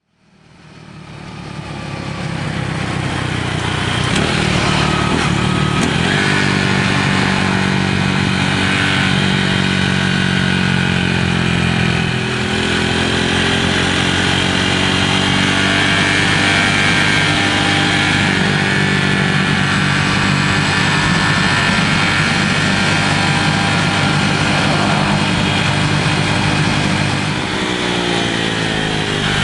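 Honda Cross Cub 110's single-cylinder engine running at high revs on the move, carrying a strange resonant noise that appears only at high rpm. The engine note dips briefly about twelve seconds in and again near the end.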